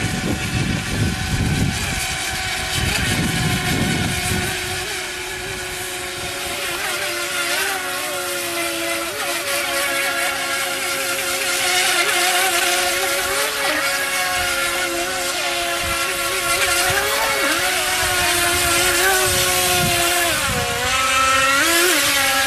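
FT007 mini RC racing boat's 370 electric motor and propeller whining steadily, its pitch dipping and rising briefly several times as the throttle changes, over a hiss of spray. A low rumble sits under it for the first few seconds.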